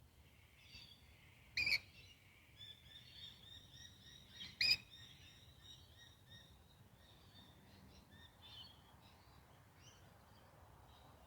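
Birds calling outdoors: rapid runs of short, high chirps, broken twice by a louder, sharp call.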